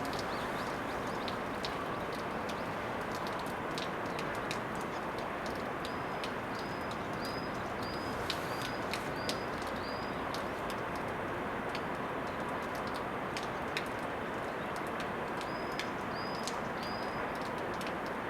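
A small bird calling a short, high chirp over and over, about one and a half a second, in two runs. Behind it is a steady hiss with scattered sharp ticks.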